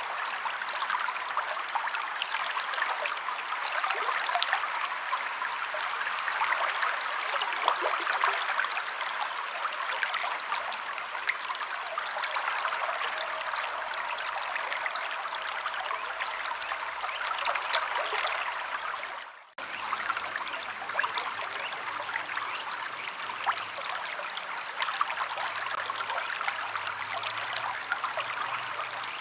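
Steady rushing of a flowing river or stream, with a few faint high chirps now and then. About two-thirds of the way through, the water sound cuts out for an instant and comes straight back.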